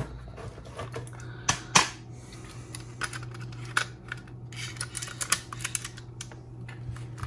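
Irregular light clicks and taps of small objects being handled on a workbench, the two loudest about a second and a half in, over a steady low hum.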